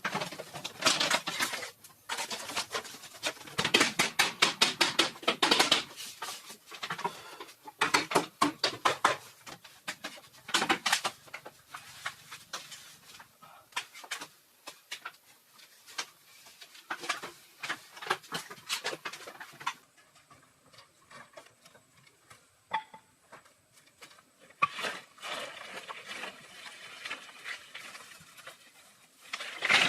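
Bursts of rapid tapping and scraping, many strokes a second, that fall quiet about two-thirds of the way through, resume, and end on a louder hit.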